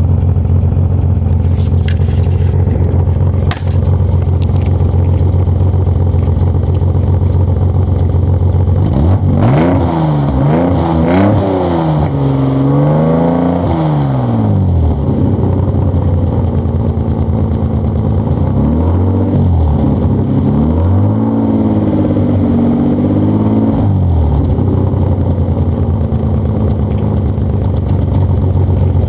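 Nissan 300ZX Z32's naturally aspirated VG30DE V6 through an aftermarket exhaust, which others take for a Flowmaster 40 series muffler, idling steadily. About nine seconds in it is revved in several quick blips that rise and fall, drops back to idle, then is blipped again around twenty seconds in before settling back to idle.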